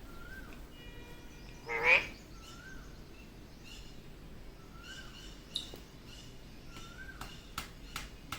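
Indian ringneck parakeet calling: one loud squawk about two seconds in, soft short chirps every couple of seconds, and a few sharp clicks near the end.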